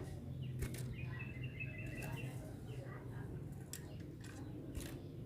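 Sooty-headed bulbul calling: a quick run of short chirps about a second in, with a few sharp clicks and a low steady hum underneath.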